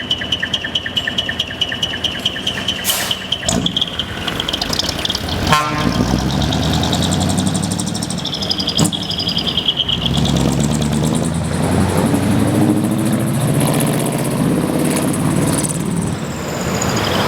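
Diesel engine of a decorated Japanese truck with a manifold-split (mani-wari) exhaust, running and growing louder through the second half. A high steady whistle sounds over the first few seconds, and there is a sharp knock about five seconds in.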